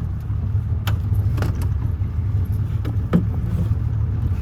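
Boat motor running steadily at idle with a low rumble, with a few light clicks from handling gear in the boat.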